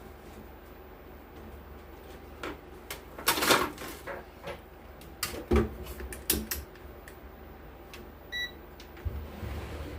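Bench work on an audio mixer's circuit board: irregular clicks, knocks and scraping of tools and parts being handled, with one short electronic beep about eight seconds in.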